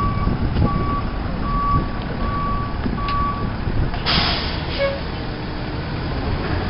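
A truck's reversing alarm beeping about five times, evenly spaced, over the low rumble of a running engine. About four seconds in, a short sharp hiss like air brakes releasing.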